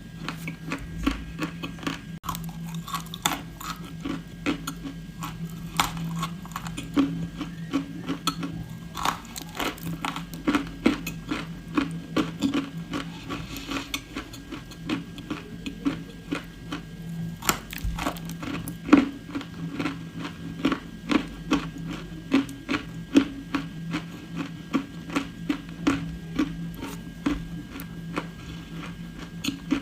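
Close-miked crunching and chewing of dry edible clay: sharp, crisp crunches a couple of times a second, over a steady low hum.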